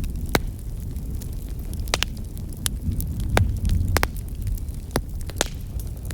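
Wood campfire crackling, with sharp pops scattered irregularly, one or two a second, over a steady low rumble.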